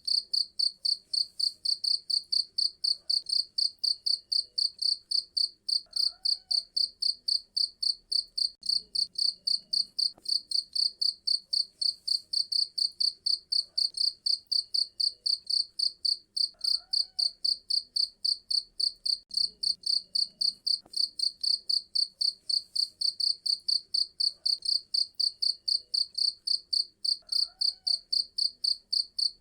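Cricket chirping without a break: an even, high-pitched pulse repeating about four times a second.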